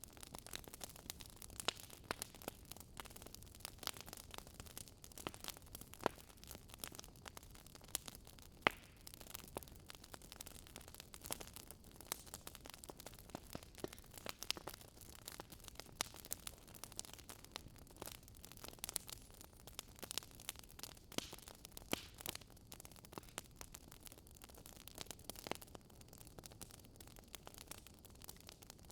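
Crackling campfire: a steady soft hiss with frequent, irregular pops and snaps of burning wood.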